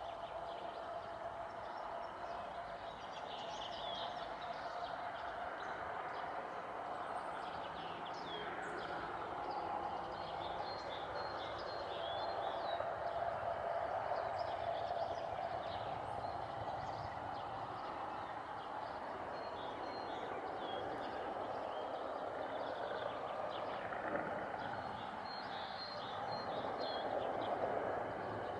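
Small birds chirping repeatedly over a steady background rumble.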